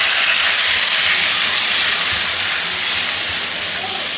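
Sliced tomato wedges sizzling loudly in hot oil in a frying pan, just tipped in: a steady hiss that eases slightly near the end.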